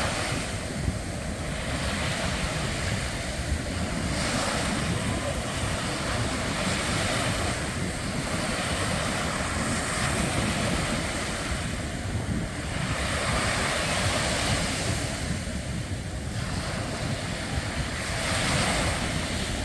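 Ocean surf washing on a beach in slow swells every few seconds, with wind on the microphone.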